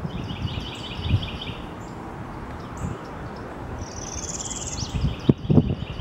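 Wild songbirds calling: a fast run of repeated high chirps, about six a second, for the first couple of seconds, then later a quick trill rising in pitch overlaid with another run of repeated chirps. A few loud low thumps come near the end.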